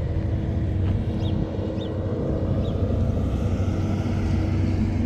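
An engine running steadily, a low drone with a constant hum, with three short high chirps in the first half.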